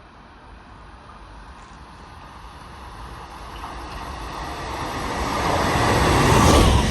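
A train approaching at speed: a rushing noise that grows steadily louder, peaking near the end as it draws close.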